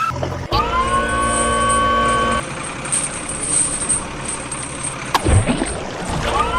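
Vehicle engine sound rising in pitch and then holding steady, heard twice, with a brief thump between.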